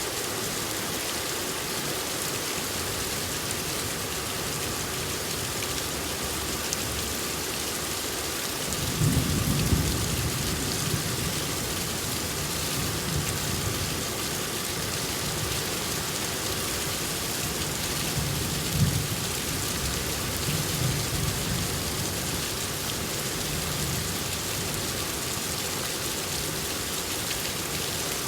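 Steady rain falling, with thunder rumbling in low from about nine seconds in. The loudest clap comes near the middle, and further rolls fade out a few seconds later.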